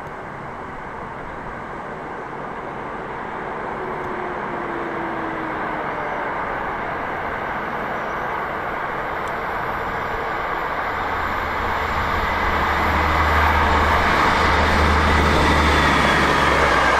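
A train approaching, its rumble growing steadily louder, with a low hum setting in in the second half and a faint high squeal near the end.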